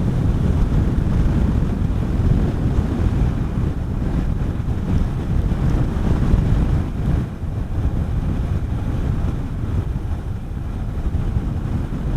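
Steady wind noise buffeting the microphone of a rider on a moving Honda CB400SS motorcycle, a heavy low rumble.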